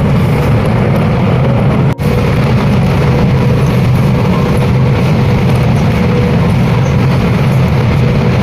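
Steady, loud low rumble with a faint steady hum on a high-speed railway platform, broken by a brief dropout about two seconds in.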